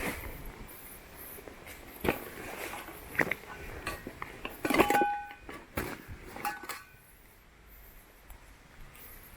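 Metal camp gear being handled: a run of knocks and clinks over the first seven seconds, the loudest about five seconds in with a brief metallic ring, then quiet handling.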